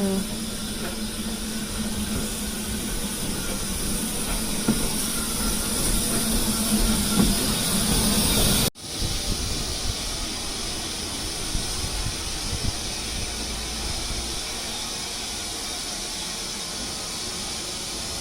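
Steam locomotive standing with steam hissing steadily, a low steady hum under it for the first half. The sound breaks off for an instant about nine seconds in, then the hiss carries on.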